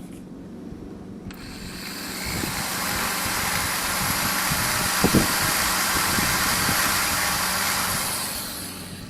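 Compressed air hissing steadily for about seven seconds, as from an air tool used to deburr an engine block, with a few knocks partway through.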